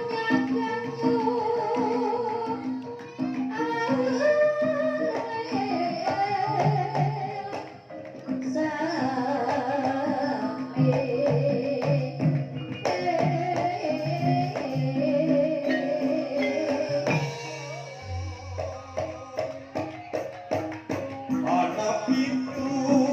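Banyumasan gamelan music in the ebeg style, played live: a singing voice over the ensemble's struck tones, with a steady hand-drum beat.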